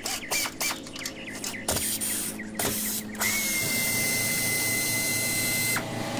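Pneumatic air ratchet on the 18 mm nuts holding a steel bumper to a truck's frame rail: several short trigger bursts with clicks, then a steady high whine for about two and a half seconds as it spins a nut off, cutting out sharply near the end.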